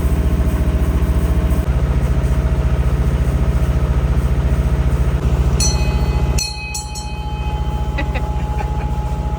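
A sailboat's inboard diesel engine running steadily under way. About five and a half seconds in come a few short high-pitched beeps, and a second later the engine sound drops away sharply, becoming much thinner.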